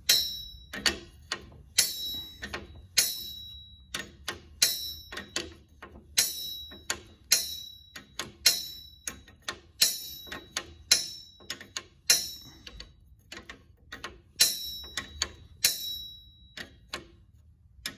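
A steel wrench on the tractor's oil cooler line fittings: a run of sharp metal clinks, roughly one to two a second, each ringing briefly as the fittings are loosened.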